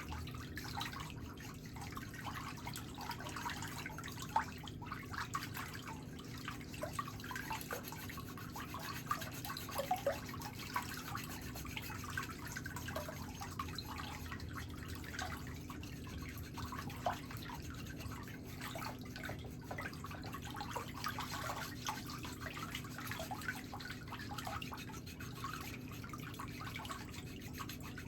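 Foot file scraping the wet sole of a foot in short, irregular strokes, over a steady low hum.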